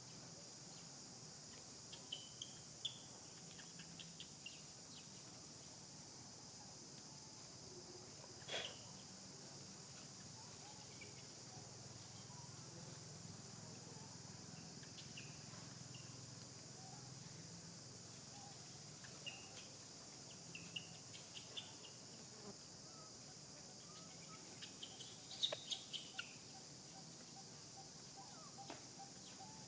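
Faint, steady high-pitched insect drone, with scattered clicks and short chirps; a sharp click about eight and a half seconds in and a cluster of clicks and chirps around twenty-five seconds are the loudest.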